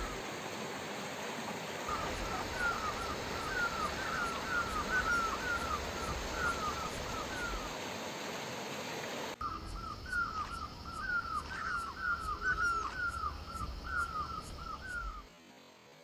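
A bird calling in repeated runs of short, falling chirps, about three or four a second, over a steady background hiss. The sound cuts abruptly about nine seconds in and the calls resume. It drops to near silence shortly before the end.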